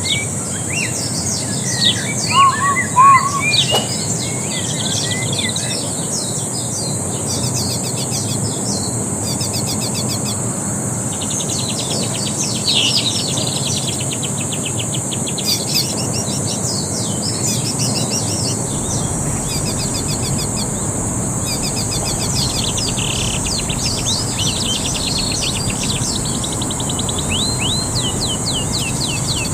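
Several birds chirping and trilling over each other, with a few louder chirps in the first few seconds, over a steady high hiss.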